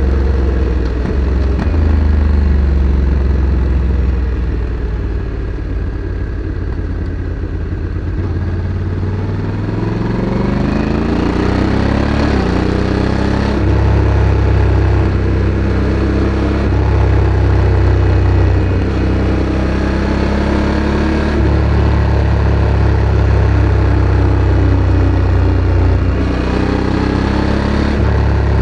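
Honda Africa Twin CRF1100 DCT's parallel-twin engine running through its factory exhaust while riding. The note is low and even at first, then climbs steadily as the bike accelerates, drops suddenly at an upshift about halfway through, and changes step twice more near the end.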